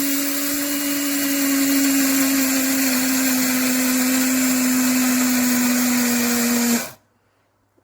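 300 W electric blade coffee grinder running with a steady, loud whirring hum as its stainless steel blades chop flax seeds, the pitch sinking slightly, then cut off abruptly about a second before the end. The short run leaves the seeds coarsely chopped rather than ground to flour.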